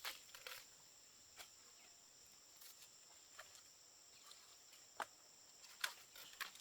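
Faint, steady high-pitched insect trill with a few scattered sharp clicks or snaps.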